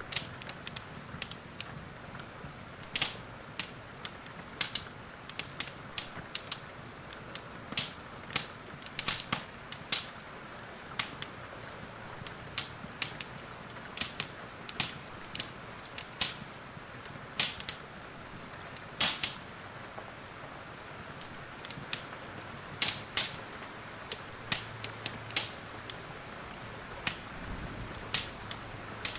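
Wood fire in a fireplace crackling, with irregular sharp pops, over a steady hiss of rain.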